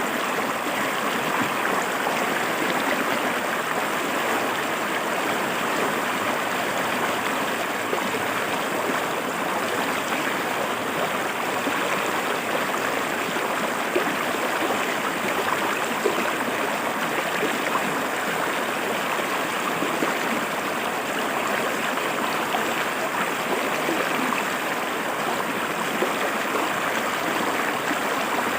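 River water flowing steadily over rocks, a continuous rushing and splashing with no pauses.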